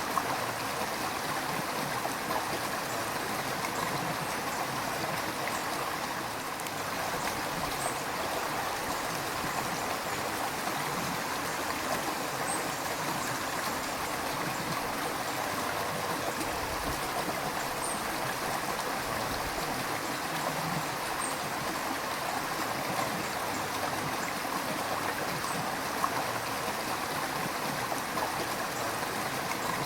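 River water flowing steadily over stones, an even rushing with light trickling and gurgling.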